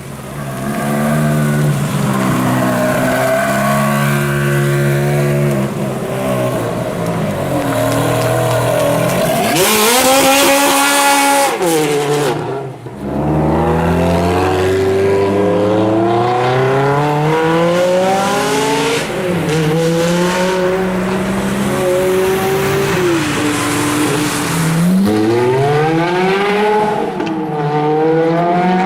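Ferrari V8 engine and exhaust, loud, revving and accelerating through the gears. Pitch rises to a high peak, cuts off sharply for a moment about halfway, then climbs again in repeated rising pulls with shifts between them.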